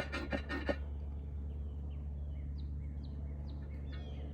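Bee smoker's bellows pumped in a few quick puffs, stopping within the first second, as the smoker is worked to get it smoking. Then small birds give a run of short, falling chirps, over a steady low hum.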